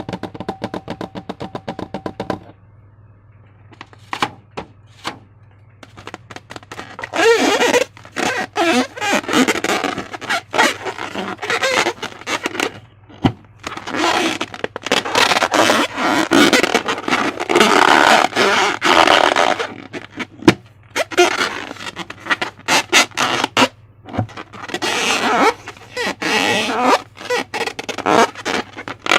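Slime being squeezed and stretched by hand, with wet crackles and pops coming in bursts of several seconds, over a steady low hum.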